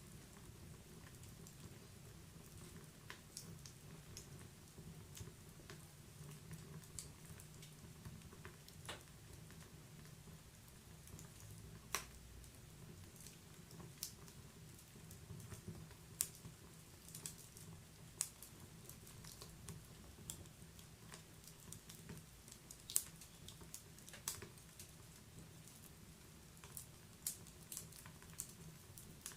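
Wood fire crackling in a fireplace: irregular small snaps and pops over a low steady burning sound, with a few louder pops scattered through.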